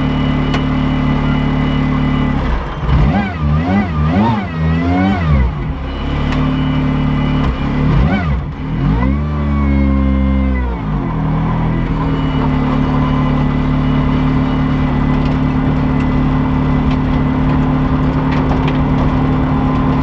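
Race car engine idling, blipped with a quick run of about four revs between about two and a half and five and a half seconds in. There is one more short rev near eight seconds, then a longer rev held briefly and let fall just after nine seconds, before it settles back to a steady idle.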